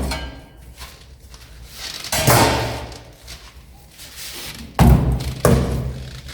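Three heavy, dull thuds, about two seconds in and twice near the end, each ringing out for about a second.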